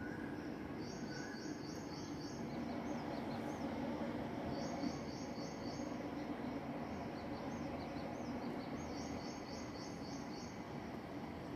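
Steady background room noise with a bird chirping outside: runs of about six quick high notes lasting about a second, repeating every few seconds, with short rising-and-falling chirps in between.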